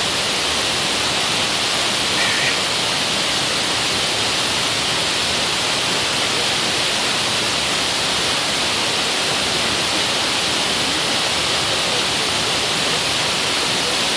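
Steady, even rushing noise like falling water, unchanging throughout.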